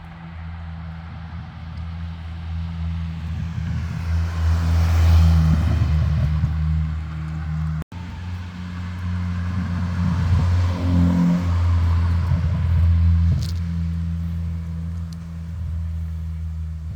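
Hyundai Sonata N Line's turbocharged 2.5-litre four-cylinder running through a custom straight-through exhaust with a resonator, a steady low drone that swells in level twice, with a rising hiss during the first swell.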